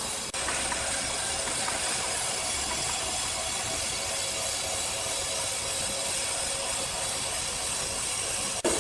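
Sawmill machinery running steadily: an even hissing whir with faint steady tones in it, briefly broken just after the start and again near the end.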